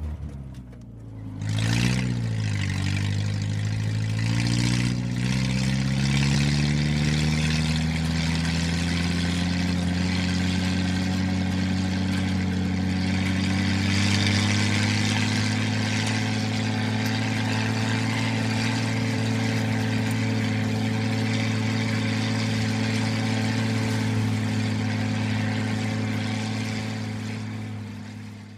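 Tractor engine revving briefly about two seconds in, then running steadily, and fading out near the end.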